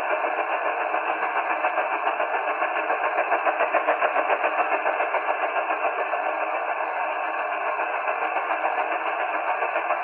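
The "Russian Woodpecker" over-the-horizon radar signal on 34 MHz, received by a 1939 Hallicrafters S-20 shortwave radio and heard from its speaker. It is a fast, even, rapid pulsing tap over a noisy hiss.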